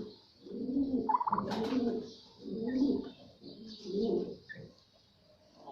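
Pigeons cooing: a run of low, rolling coos, about one a second, with a short higher chirp about a second in.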